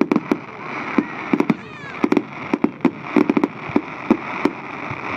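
Fireworks going off: a rapid, uneven string of sharp bangs, about three or four a second, over a steady hiss.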